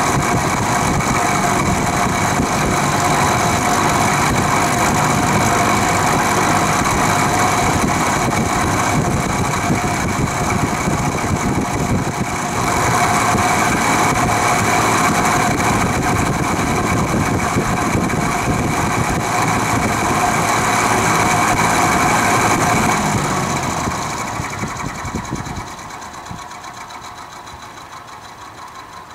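Vintage Penncrest (rebranded Lakewood) 20-inch three-speed box fan running with a steady rattle from the motor, a diesel-like clatter that remains even with the bearings soaked in WD-40. The owner isn't sure whether it needs bearings. It gets louder about twelve seconds in and fades away near the end.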